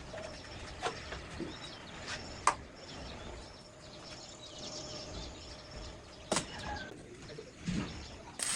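A few sharp clicks and knocks of metal parts being handled, loudest about six seconds in, over faint high chirping in the background.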